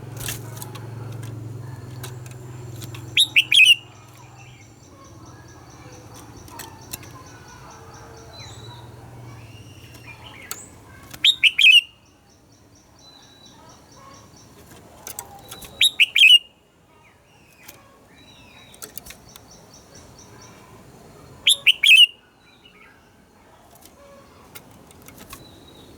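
Red-whiskered bulbul singing: four loud, short phrases of quick falling whistles several seconds apart, with fainter chirps and a fast buzzy chatter between them.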